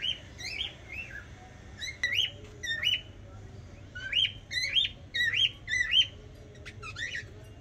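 A small bird chirping over and over: short whistled notes that each sweep up and drop back in pitch, coming in quick runs and loudest about four to six seconds in.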